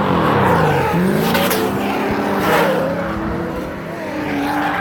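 Drift car engine revving: the pitch drops over the first second as the throttle lifts, then climbs and holds as it comes back on, over tyre noise.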